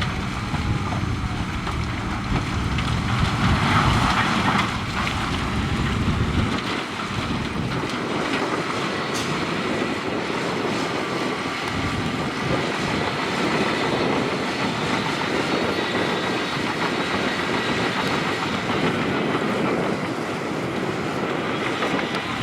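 Tracked bulldozer working, its diesel engine running under a steady metallic clatter from the steel tracks. The deep low rumble eases about a third of the way in.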